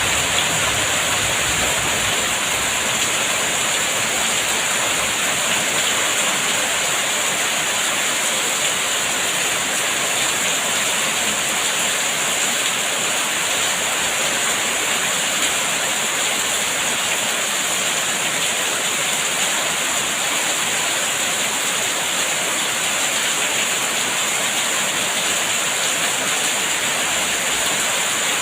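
Steady rain falling, an even, unbroken hiss with no drops or thunder standing out.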